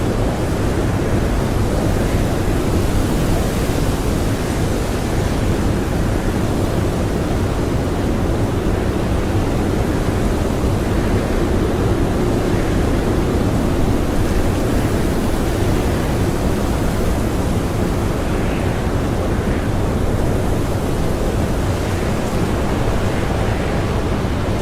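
Blizzard wind blowing hard and steadily, a dense low rush with occasional brief gusts, heard from inside a cottage.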